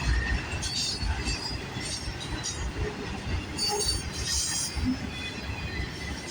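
A CN freight train's cars rolling past with a steady low rumble. High-pitched wheel squeal rises twice: briefly about a second in, and again around four seconds in.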